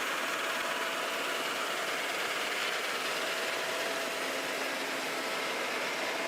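A vehicle engine running steadily, with an even, unchanging hum.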